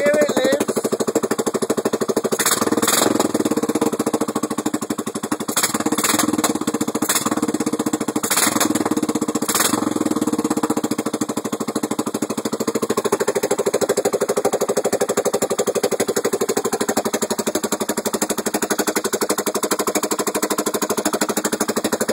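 Suzuki Savage 650's single-cylinder four-stroke engine running on its first start, firing in a rapid, even, machine-gun-like beat. Several sharper cracks stand out over the beat in the first ten seconds.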